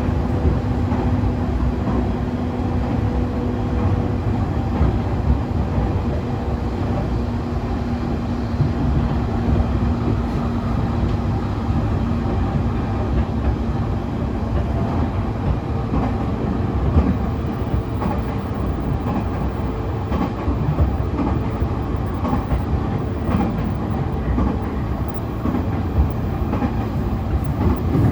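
Interior running sound of a JR E531 series electric multiple unit with a Hitachi IGBT-VVVF inverter, cruising with a steady rumble and rail clatter. A faint steady hum from the drive changes pitch about halfway through.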